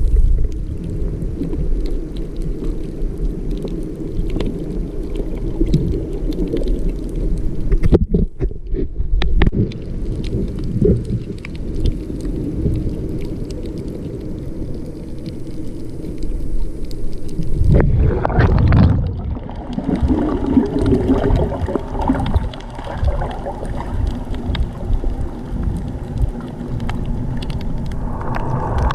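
Muffled, rumbling water noise picked up by a camera filming underwater on a coral reef. It swells louder and brighter about two-thirds of the way through.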